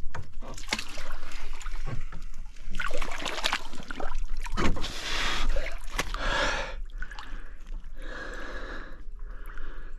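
Water splashing and sloshing as a person moves about in the shallows beside the boat, with irregular sharp splashes and knocks.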